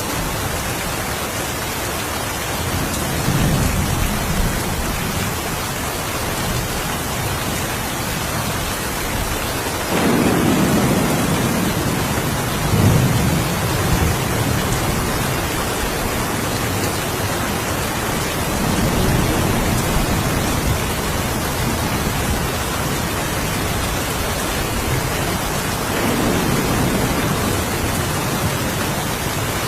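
Steady rain with low rolls of thunder rumbling in several times, the strongest about a third of the way in.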